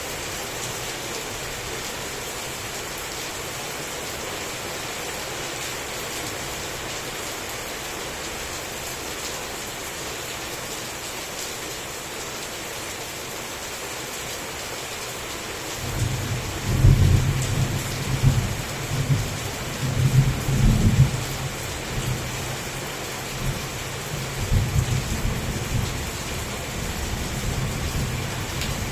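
Heavy rain falling steadily. About halfway through, thunder rolls in with several low rumbling surges over roughly ten seconds, then dies back under the rain.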